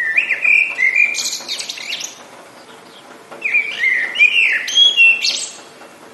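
A songbird sings two phrases about three seconds apart. Each is a few clear gliding whistled notes ending in a higher, buzzier flourish, over a faint steady background hiss of rain.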